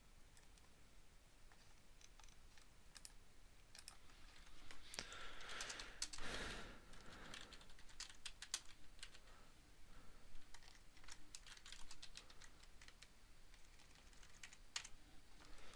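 Faint computer keyboard typing and clicking in irregular runs of keystrokes, with a short rush of noise around the middle.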